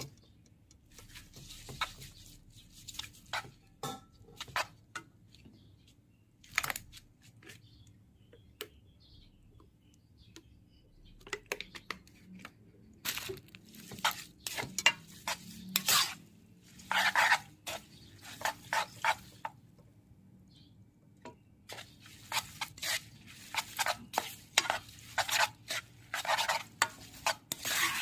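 Kitchen utensils clinking and scraping against dishes, in irregular clusters of sharp taps and scrapes with short quiet gaps.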